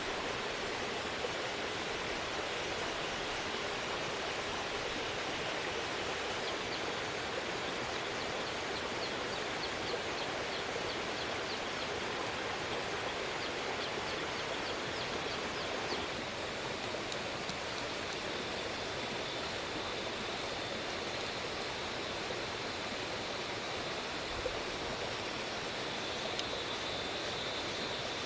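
Steady rushing outdoor noise with no clear events. Faint quick high ticks come in around the middle, and a faint steady high tone joins about halfway through.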